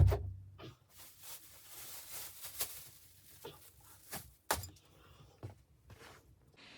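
A loud thump, then rustling and a scatter of sharp knocks and clicks, like objects being handled in a small room.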